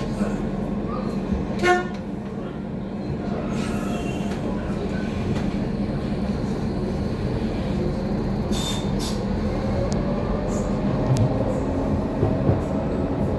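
Docklands Light Railway train running, heard from on board: a steady hum of motors and wheels on the rails. There is a short sharp pitched sound about two seconds in, and a whine that slowly rises in pitch through the second half.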